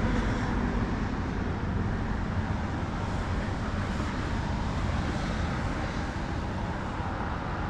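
Wind buffeting the microphone: a steady, low rushing noise that eases off slightly over the seconds.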